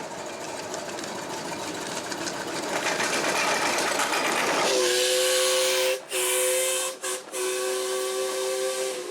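Steam locomotive on a miniature railway: steam hiss building, then about halfway in its two-note whistle sounds in a few blasts with short breaks between them.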